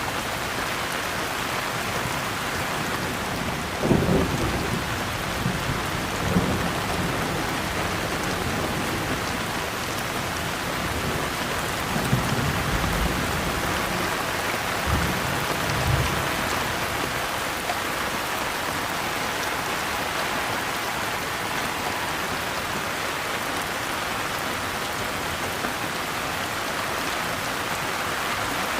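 Steady rain falling, with brief low rumbles of thunder about four seconds in, again around six seconds, and a longer patch of rumbling roughly halfway through.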